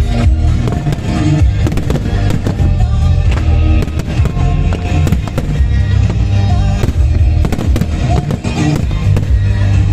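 Fireworks going off in a rapid, irregular string of bangs and crackles throughout, over loud music with a heavy bass line.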